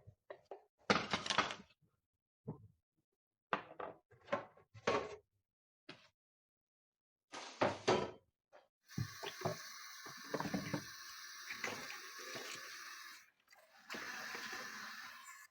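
A run of short knocks and clatters of objects being handled, then from about nine seconds in a steady hiss with further knocks over it.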